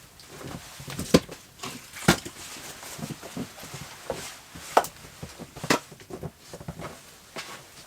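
Rustling with a series of separate sharp knocks and clicks, as when small objects are handled and set down. The loudest knocks come about a second and two seconds in, and again near five and six seconds.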